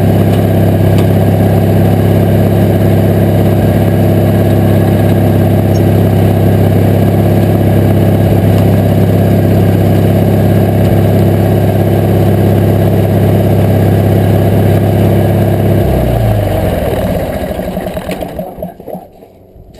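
Briggs & Stratton V-twin engine of a Craftsman GT18 garden tractor running steadily, then switched off about sixteen seconds in and winding down to a stop over about three seconds.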